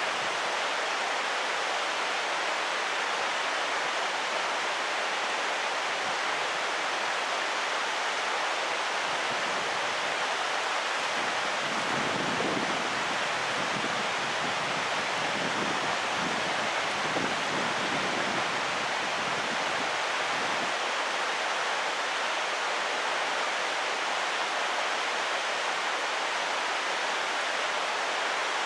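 Mountain stream rushing over rocks, a steady, even rush of water. A low, irregular rumble comes and goes for about ten seconds midway.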